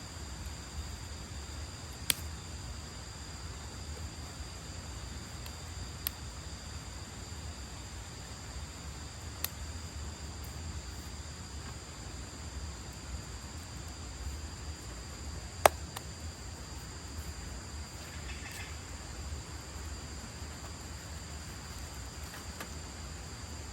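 Crickets and other night insects calling, a steady two-tone high drone, with a few sharp isolated pops scattered through it; the loudest pop comes about two-thirds of the way through.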